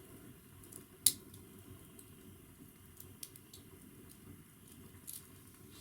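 Quiet indoor room tone with a few faint clicks and ticks, one sharper click about a second in.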